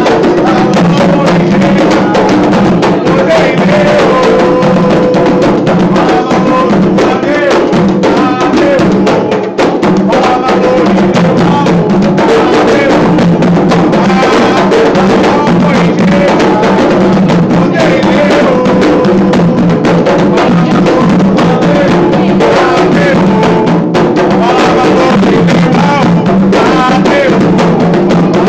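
Loud Candomblé ritual music: hand drums beating a steady, driving rhythm while voices sing a Yoruba chant.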